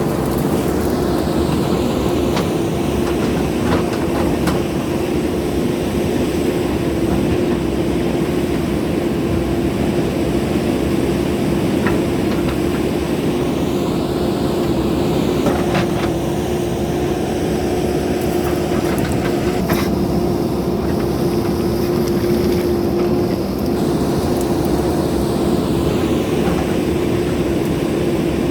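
Steady machine hum holding one constant pitch throughout, with a few faint clicks.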